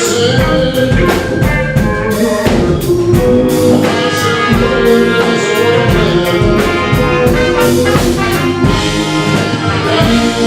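Live blues band playing an instrumental passage, with the horn section of tenor saxophone and trumpet holding notes over drum kit, bass and keys.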